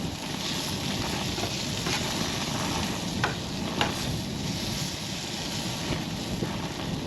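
Food sizzling in a skillet, with wind rushing over the microphone and a few light clicks of a utensil against the pan.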